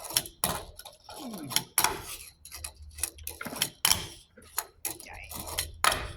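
Tech Deck fingerboard tricks: a run of irregular sharp clicks and taps as the small board is flicked, pops and lands on a hard surface.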